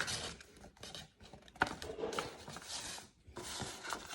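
A sheet of A4 paper being folded and creased by hand: rustling and rubbing of the paper, with a sharp crinkle about one and a half seconds in.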